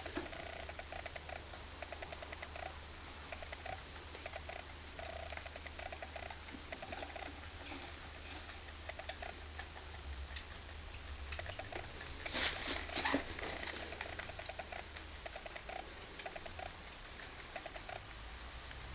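Rabbit chewing hay: quick, rhythmic crunching, several bites a second. A few louder scratchy crunches come about twelve seconds in.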